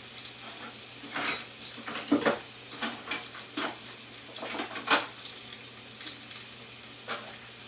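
Metal kitchen utensils and dishes clattering in a series of separate clinks and knocks, the loudest about two seconds in and again near five seconds, over a faint steady sizzle of chicken searing in a hot pan.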